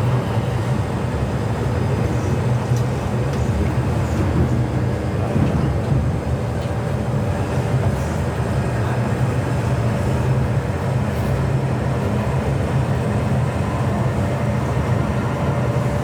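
MTR Tsuen Wan Line M-Train running between stations, heard from inside the carriage: a steady low rumble of wheels and traction equipment, even throughout.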